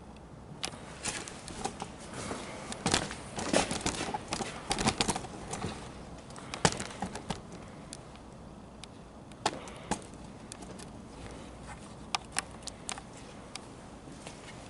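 Irregular sharp clicks and knocks, a busy cluster in the first five seconds or so, then sparser single clicks.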